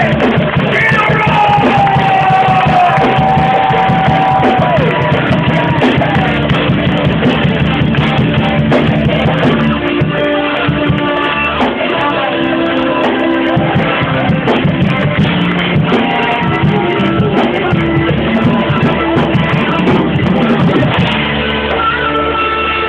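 Live band playing with drums and guitar, and a voice singing over it; a second or so in, the voice holds one long note that slides down at its end.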